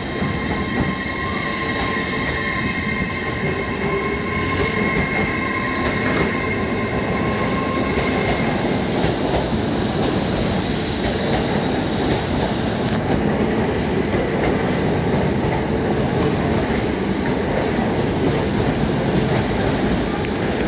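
LNER passenger train running past on the rails: a steady rumble of wheels and running noise throughout, with a high, steady tone over it for about the first eight seconds that then fades out.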